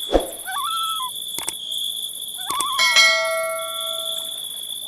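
A steady, high insect-like chirring runs under wavering whistled glides. About three seconds in, a bell-like chime is struck and rings on, fading, for a second or so.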